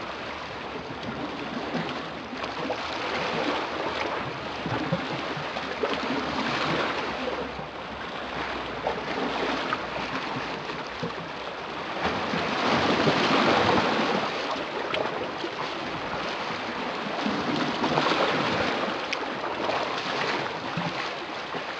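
Sea waves breaking and washing ashore, the surf swelling and easing in turn, loudest a little past the middle.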